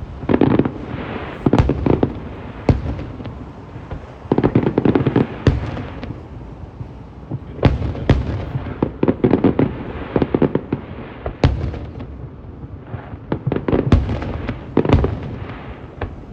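Fireworks going off: a string of sharp bangs, some single and some in crackling clusters, coming every second or two.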